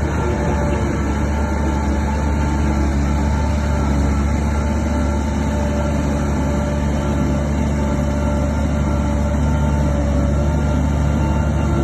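Heavy earthmoving machine's diesel engine running at a steady pitch, a low drone with a constant whine above it.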